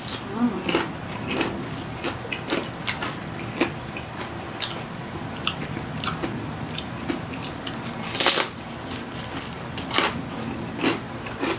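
Chewing and biting into crispy deep-fried pork knuckle (crispy pata), with repeated short crackles of the crunchy skin. The loudest crunches come about eight and ten seconds in.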